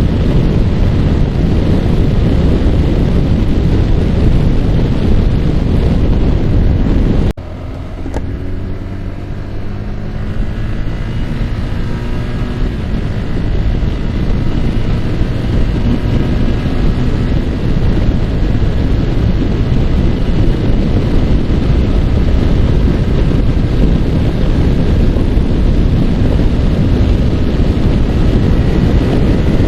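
Yamaha R15's single-cylinder four-stroke engine running at road speed under heavy wind rush on the microphone. About seven seconds in, the sound drops suddenly: the engine note stands out clearly and climbs as the bike speeds up, and the wind noise builds back up.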